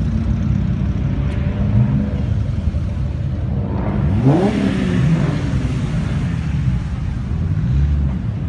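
Car engine idling with a steady low rumble, revved once about four seconds in, its pitch climbing quickly and then dropping back to idle.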